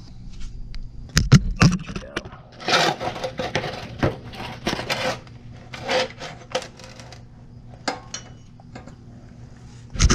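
Light metallic clinks and knocks from steel exhaust pipe pieces being handled and test-fitted, with several short bursts of scraping between them.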